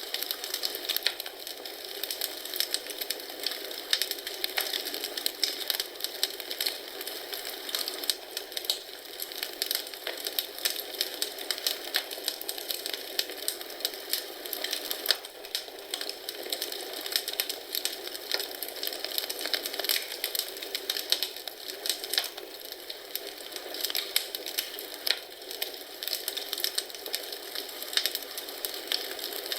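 Wood fire crackling in a fireplace: a steady hiss full of small, irregular pops and snaps.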